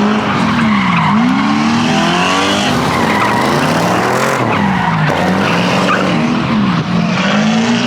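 A car engine revving hard, its pitch swinging up and down several times, while the tyres spin and screech on the pavement in a burnout.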